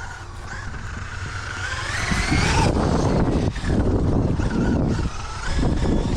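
Brushless electric motor of a Traxxas UDR radio-controlled trophy truck whining as it accelerates, its pitch rising for over a second and cutting off suddenly, then whining again briefly, over a steady low rumble.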